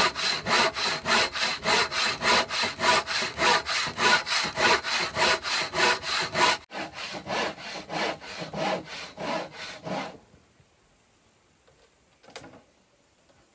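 Hand saw sawing steadily at about three to four strokes a second. The strokes get softer after about seven seconds and stop about ten seconds in, followed by a single faint knock.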